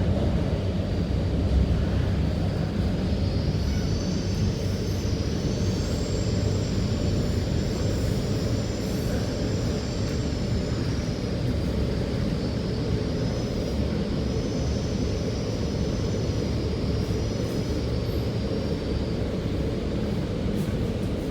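Interior of an MTR K-Train (Rotem EMU) running at speed: a steady low rumble of wheels on rail, with a faint high-pitched whine of several tones that rises and falls through the middle and fades out near the end.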